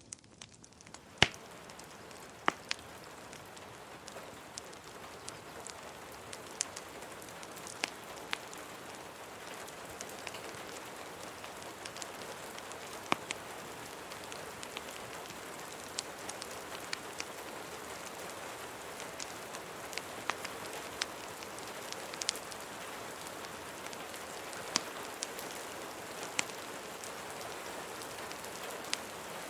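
Steady rain hiss with scattered sharp pops and crackles of a wood fire, the rain swelling up over the first few seconds.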